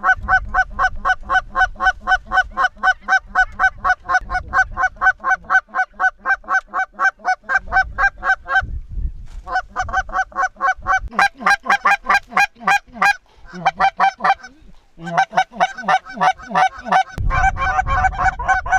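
Goose honking: a fast, very regular run of honks, about four to five a second, pausing twice briefly, with a low wind rumble near the end.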